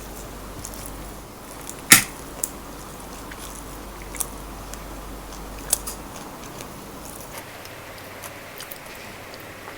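Close-miked eating of crispy fried chicken: one loud sharp crunch about two seconds in, then a few fainter crisp clicks and chewing.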